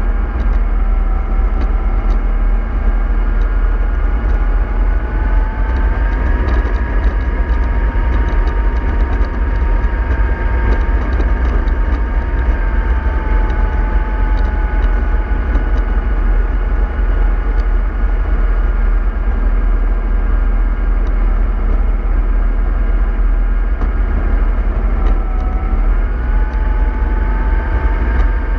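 Bus running along over a steady low rumble, with a whine in two pitches that slowly rises and falls as the speed changes.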